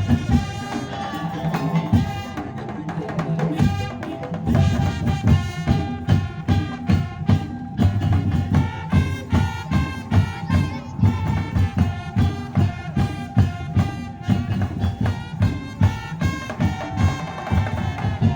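Madurese tong-tong parade band playing live: a fast, steady beat of drums and slit drums under a sustained melody line.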